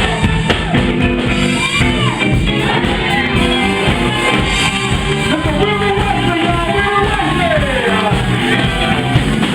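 Live band music with a singer over a steady drum beat and guitar.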